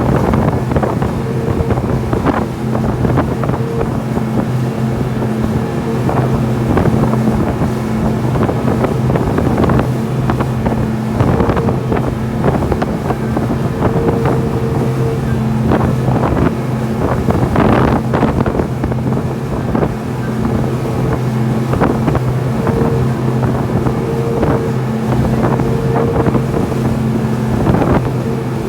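Glass-bottom tour boat's engine running steadily with a low, even hum, under wind buffeting the microphone.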